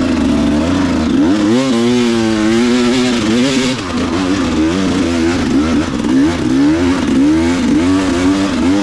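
Dirt bike engine revving hard on a steep hill climb, its pitch rising and falling again and again with the throttle.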